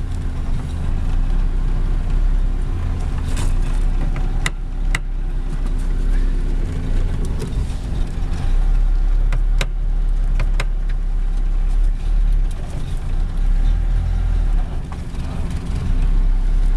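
Fiat 600's rear-mounted four-cylinder engine running as the car drives, heard from inside the cabin, with a steady low hum and a few sharp clicks along the way.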